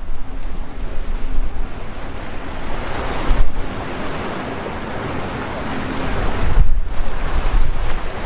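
Rough surf rushing and breaking, with wind buffeting the microphone in strong low rumbles. The wash swells about three seconds in and again near the end, over a faint steady hum.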